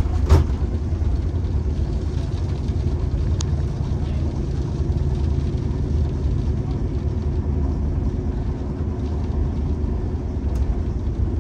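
Steady low rumble of a passenger train running at speed, heard from inside a closed coach compartment, with one sharp knock about a third of a second in.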